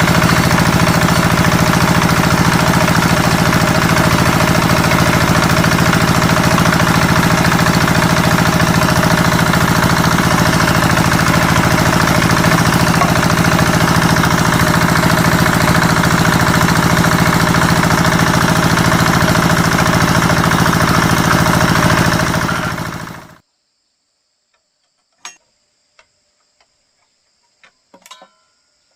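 A woodworking power tool's motor running steadily at full speed, then stopping about 23 seconds in. A few light knocks follow over a faint high insect hum.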